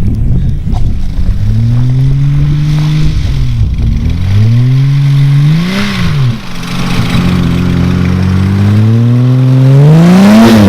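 1987 BMW 325i's straight-six engine revving up and dropping back three times, the last climb the longest and highest. The clutch is worn and slipping badly.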